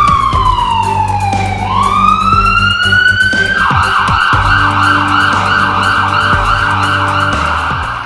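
An emergency-vehicle siren sweeps down in pitch and back up, then switches to a fast warble of about three cycles a second. Background music with a steady low drone plays underneath.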